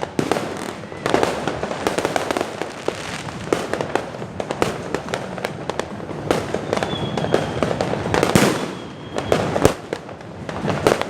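Fireworks and firecrackers going off together: a dense, unbroken run of bangs and crackles, with the loudest bangs about eight seconds in.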